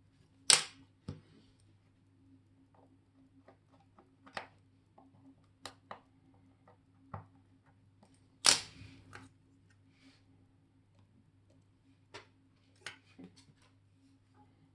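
Sharp clicks and light taps of small metal tools and watch parts on a watchmaker's bench, with two louder knocks, one about half a second in and another about eight seconds later. A faint steady hum runs underneath.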